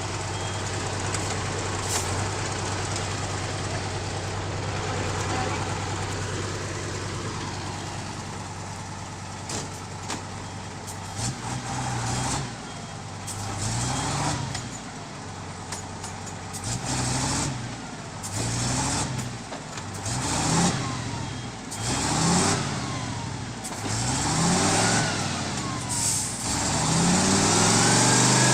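Heavy vehicle's engine running steadily, then revved up and let back down again and again, about once every one and a half to two seconds, before settling into a steady higher-pitched run near the end.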